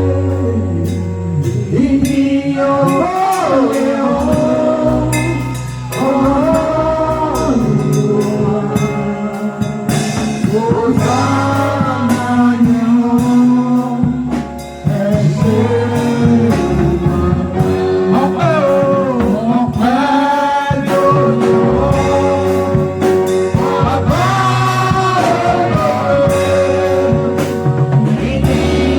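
Live gospel worship music: singing with keyboard, bass and drums in a steady beat.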